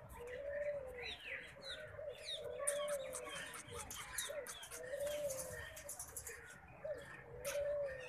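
Caged birds calling. A soft, low cooing note rises and falls four times, about every two and a half seconds, over quick higher chirps and clicks.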